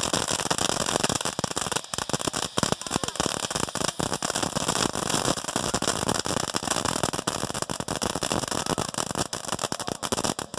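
Small consumer ground firework crackling: a dense, continuous stream of sharp little pops over a hiss, with no let-up.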